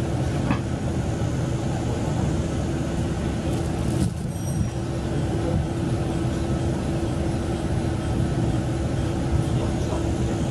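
Cabin noise of a KiHa 40 diesel railcar: a steady hum and deep rumble from the engine and running gear, with one sharp knock about four seconds in.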